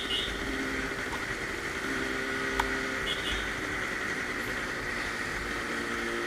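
Yamaha RD350's two-stroke twin engine running steadily at cruising speed, heard from the motorcycle itself over a rushing wind noise. There is one sharp click about two and a half seconds in.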